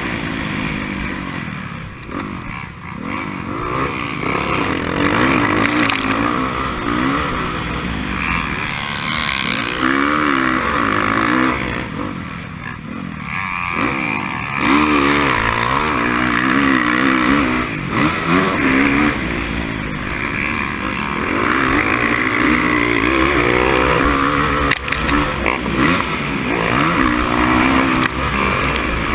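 Racing motorcycle engine revving up and down again and again as it is ridden hard, with the throttle briefly chopped twice. A steady rushing noise runs over it.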